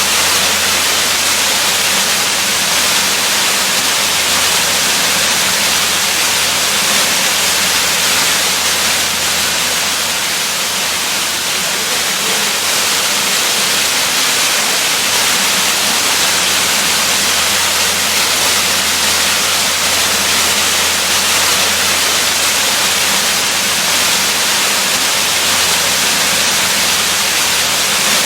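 Waterfall rushing in a steady, unbroken hiss, with most of its energy high up.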